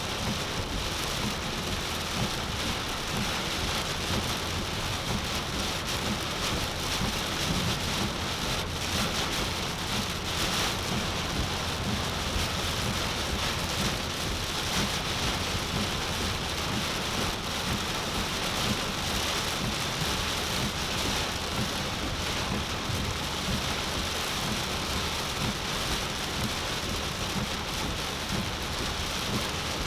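Heavy tropical-storm rain pouring steadily on a car, an even unbroken hiss.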